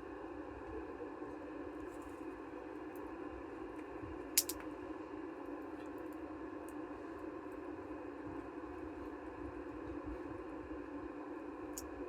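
Wood campfire burning: scattered faint crackles and one sharp, loud pop a little over four seconds in, over steady background noise.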